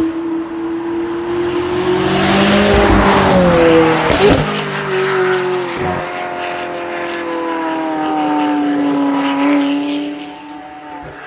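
McLaren 570GT's twin-turbo V8 running loud through a decatted, straight-piped Larini exhaust, holding a fairly steady pitch. A louder, rougher surge comes about two to four seconds in, with sharp cracks around four and six seconds in.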